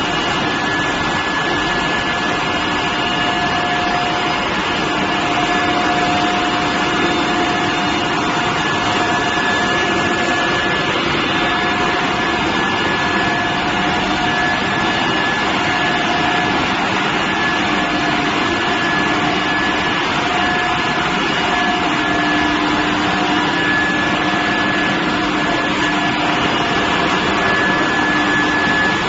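Steel billet induction preheating furnace running: a steady, loud hiss with a constant high whine and lower tones that come and go.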